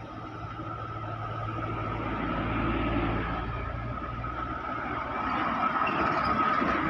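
A heavy road vehicle driving past. Its low engine drone swells and then fades after the middle, and road noise rises again near the end.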